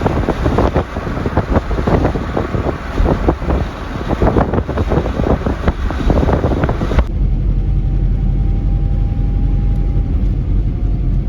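Gusty wind buffeting the microphone for about seven seconds. Then a sudden change to the steady low engine and road rumble of a car driving, heard from inside.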